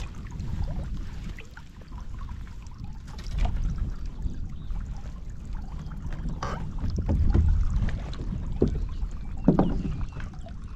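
Wind rumbling on the microphone and water moving around a fishing boat on the lake, with a few light clicks and knocks.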